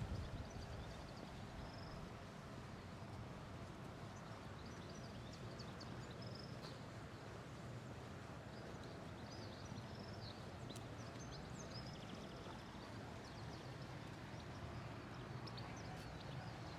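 Quiet town street ambience: a steady low background hum with scattered short, high bird chirps throughout.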